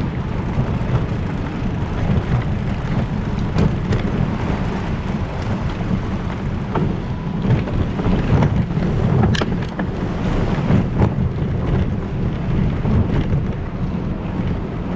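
Steady wind rumble on the microphone of a moving bicycle's camera, with a few sharp clicks scattered through it.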